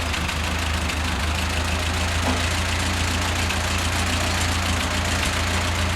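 Old Ford N-series tractor's four-cylinder flathead engine idling steadily, warming up after a start with the choke out.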